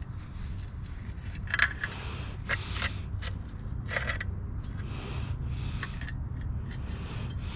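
Scraping and light metallic clicks of a motorcycle chain being scrubbed clean by hand, the clicks bunched in the first half. A steady low hum runs underneath.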